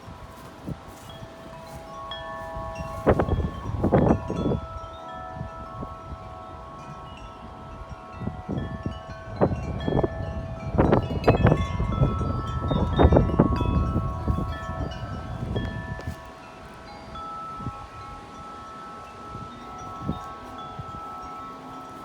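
Wind chimes ringing in gusty wind, many long overlapping tones. Wind buffets the microphone in strong gusts at about 3 to 5 seconds and again from about 9 to 15 seconds in.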